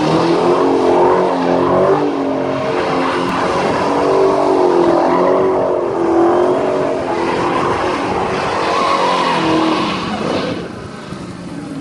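Dodge Challenger Hellcat's supercharged 6.2-litre V8 held at high revs during donuts, the revs wavering up and down, with the rear tyres spinning and squealing on the pavement. The engine eases off near the end as the car comes out of the smoke.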